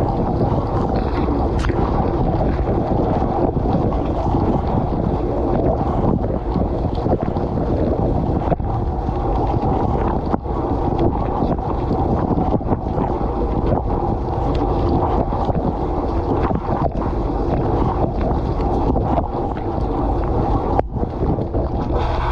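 Dishwasher spray jets splashing water inside the tub, heard from within it as a steady, loud rush of water with many small ticks of drops and jets striking close by.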